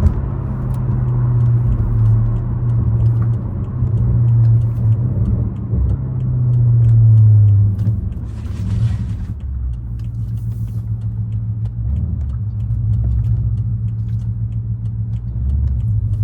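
Exhaust drone of a 2013 BMW 550i's 4.4-litre twin-turbo V8, running through catless downpipes, an H-pipe and a deleted muffler, while driving in traffic. It is a steady low rumble that swells for a few seconds mid-way, then eases off about halfway through, with a short hiss at that point.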